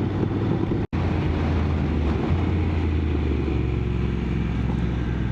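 Motorcycle engine running at a steady note while riding along a road. The sound cuts out for an instant just under a second in.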